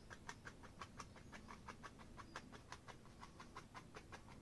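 A paintbrush loaded with oil paint dabbing against a canvas in a rapid, even series of faint taps, about six or seven a second.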